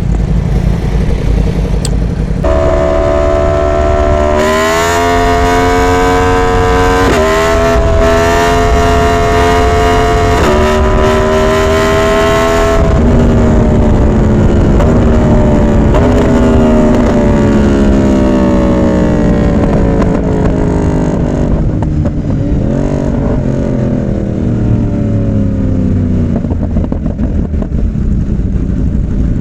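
Yamaha R1's crossplane inline-four engine pulling hard, its pitch climbing with brief dips at gear changes under rushing wind, then falling away steadily as the bike slows, with one short rise in revs about three quarters of the way through.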